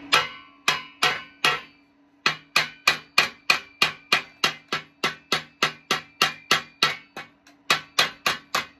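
Hammer blows on a steel exhaust pipe, each strike ringing briefly. They come as a few blows, a short pause, then a steady run of about three a second with a brief break near the end. The pipe end is being beaten down to close a gap in a poor fit before tack welding.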